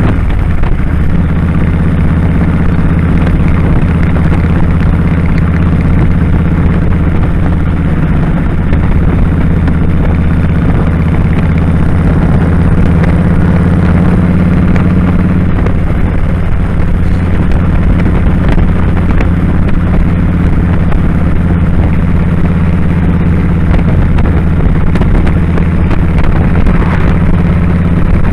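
2001 Kawasaki Drifter 1500's V-twin engine running steadily at a constant speed while the motorcycle is ridden.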